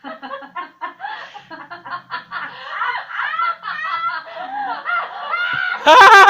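Cartoon characters laughing together in quick, choppy giggles that climb in pitch, breaking into a loud, high-pitched held cry just before the end.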